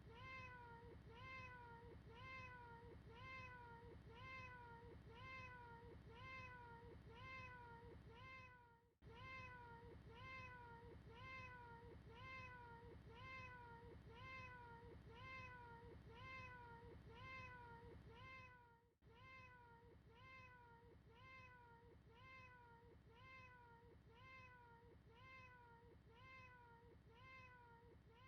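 A cat's meow looped over and over, faint: the same short call, rising then falling in pitch, about one and a half times a second, with a brief gap about every ten seconds where the loop restarts.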